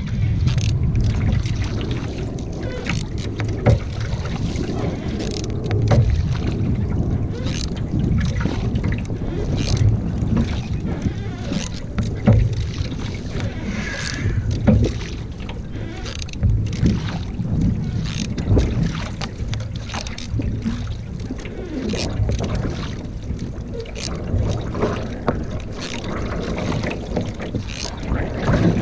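Canoe on the water in wind: a steady low rumble of wind on the microphone, with frequent irregular small splashes and knocks from the water and the hull.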